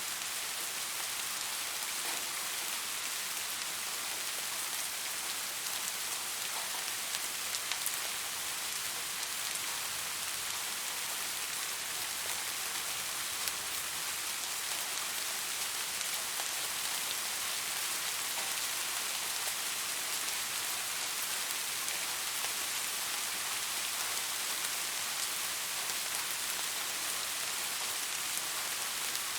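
Steady rain falling, an even hiss with fine scattered drop ticks and a few louder drops.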